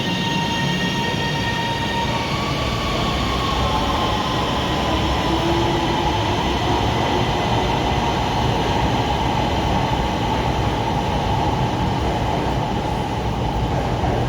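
Electric metro train moving at the platform: a steady rumble and rush of wheels, with a motor whine that glides slowly up in pitch a couple of seconds in and then holds, as it does when the train speeds up.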